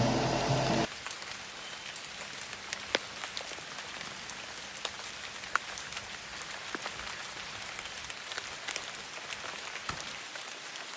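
Steady rain hiss with scattered single drops ticking sharply. Music plays for under a second at the start, then cuts off abruptly.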